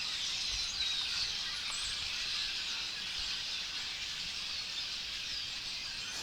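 A large flock of blackbirds, red-winged blackbirds among them, calling all at once: a dense, unbroken chatter of many overlapping high chirps and whistles.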